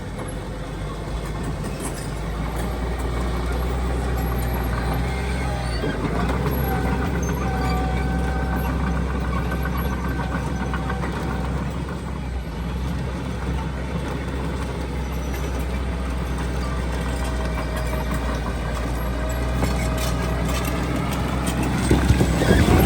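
Heavy diesel earthmoving machinery running steadily with a low engine drone. A thin steady whine comes and goes, and a louder noisy swell rises near the end.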